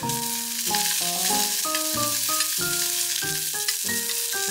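Peeled shrimp sizzling as they fry in a pan, turned with chopsticks, with a steady hiss throughout. Light background music plays over it.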